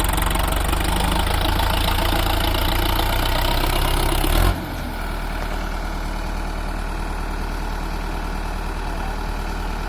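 Sonalika 750 tractor's diesel engine running steadily as the tractor drives with its cultivator. About four and a half seconds in, the sound drops suddenly to a quieter, duller running note.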